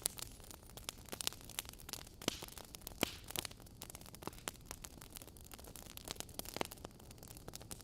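Wood fire burning in a fireplace, logs crackling and popping in irregular sharp snaps over a soft steady hiss, with a louder pop about three seconds in.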